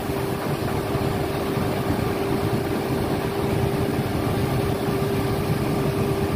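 Crane's diesel engine running steadily during a lift, with a constant whine held at one pitch over the engine rumble.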